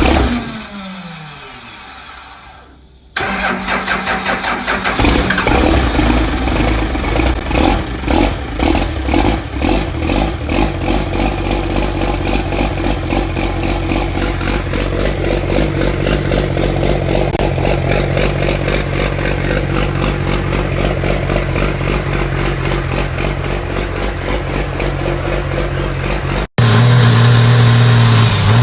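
Built Cummins inline-six diesel engine in a drag truck. For the first few seconds it winds down, its pitch falling as it fades. It then comes back in suddenly and runs loud and steady, with a sudden change to a louder, deeper drone near the end.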